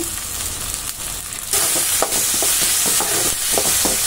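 Chopped tomatoes, onions and garlic frying in hot oil in a kadai, with a spatula stirring and scraping the pan. The sizzle grows louder about a second and a half in, when the stirring starts.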